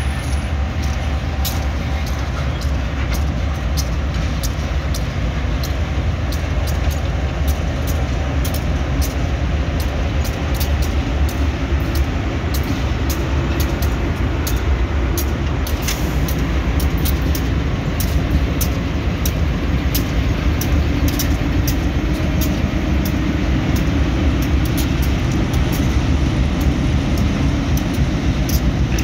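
MRS diesel-electric locomotives of a broad-gauge bauxite ore train running past close by: a steady low engine rumble that grows louder as the locomotives near, with frequent sharp clicks from the wheels on the track.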